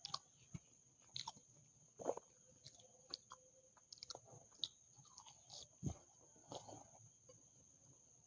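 Faint, close-miked chewing of food, with scattered soft mouth clicks and smacks at irregular intervals.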